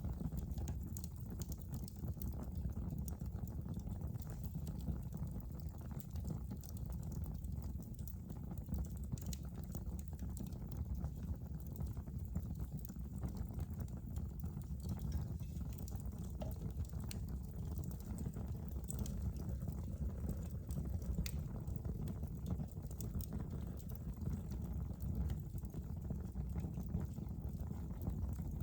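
Wood fire burning in a fireplace: a steady low rumble of flames with small crackles and pops scattered irregularly throughout.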